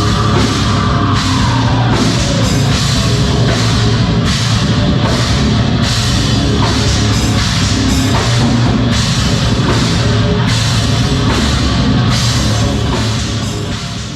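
A rock band playing live, loud and heavy, with a drum kit beating steadily under dense guitar; the sound falls away near the end.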